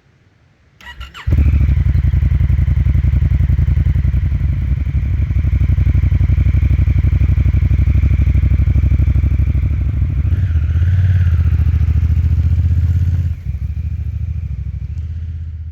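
A 2017 Honda Africa Twin's parallel-twin engine is cranked over by the starter and catches about a second in. It then runs loud and steady, changes note around ten seconds in, drops in level a few seconds later and fades near the end.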